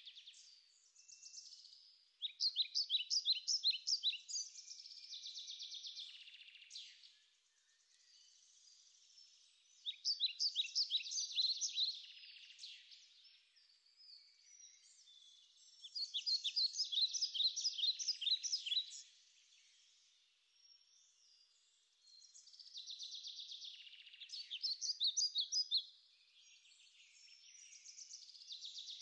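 A songbird singing repeated songs of rapid high notes, each about three seconds long, about five times with short pauses between.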